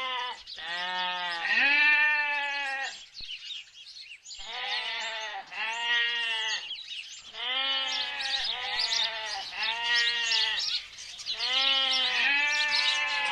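Sheep and goats bleating: a string of quavering bleats, several animals calling over one another at different pitches, with a short lull a few seconds in.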